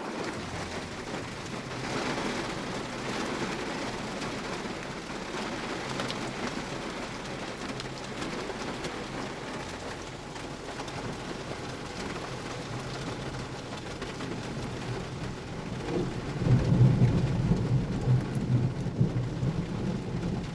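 Heavy downpour of rain pelting down steadily. About sixteen seconds in, a deep rumble of thunder swells up and rolls on to the end, louder than the rain.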